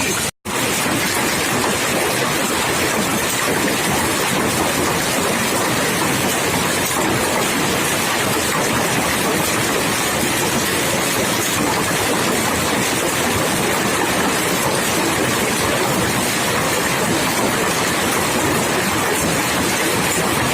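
Heavy rain pouring down: a dense, steady hiss, broken once by a momentary dropout near the start.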